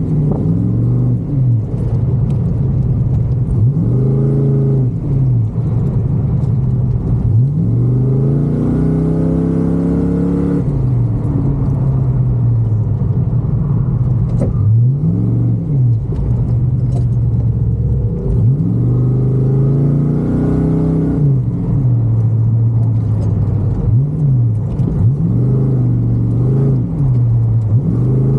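Car engine revving up and dropping back again and again, with a strong low note, as the car is driven hard through an autocross course.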